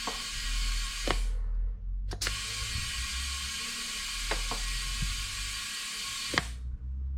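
Compressed air hissing steadily into an under-inflated spare tyre, being pumped up from 1.6 bar toward 3 bar. The air stops twice briefly and there are a few light clicks, over a low steady hum.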